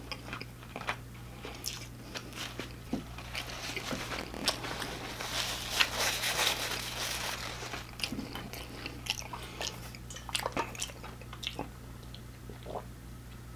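Close-miked chewing of fried food, with wet mouth clicks and small crunches scattered throughout. In the middle, a few seconds of rustling as a paper napkin is rubbed between the hands.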